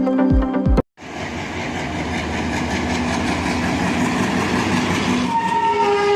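Background electronic music with a beat cuts off just under a second in, giving way to a train running through the station, its noise building steadily. About a second before the end, the locomotive's horn starts one long blast.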